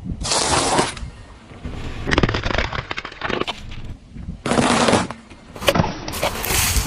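A car tyre rolling over and crushing objects in several short edited clips: bursts of crunching and cracking, with a dense crackling run in the middle.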